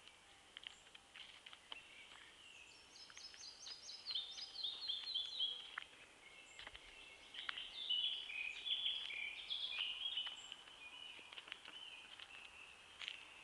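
Songbirds singing in woodland: a phrase of rapid repeated notes stepping down in pitch a few seconds in, followed by more chirping song phrases. Underneath runs a faint steady high chirr, with scattered light clicks.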